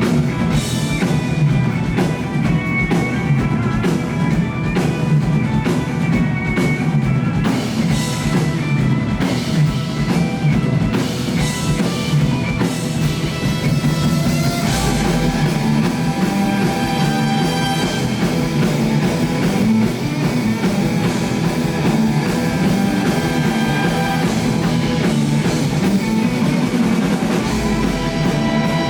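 A rock band playing live: drum kit and guitars. About halfway through, the texture changes to more held notes over a heavier low end.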